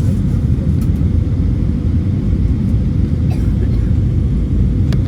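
Steady low rumble of an Airbus A321's engines and airflow heard inside the passenger cabin, with a few faint clicks.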